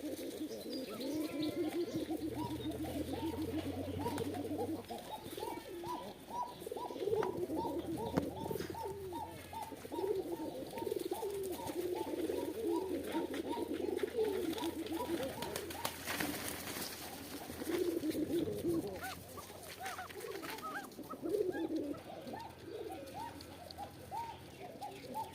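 A flock of domestic pigeons cooing without a break, many calls overlapping.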